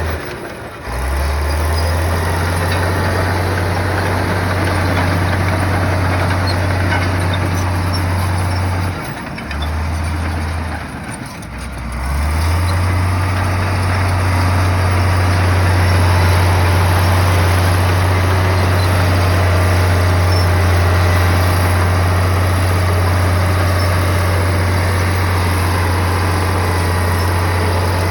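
Komatsu bulldozer's diesel engine running with a steady deep drone. The pitch dips lower about a second in and twice more between roughly nine and twelve seconds, then settles back.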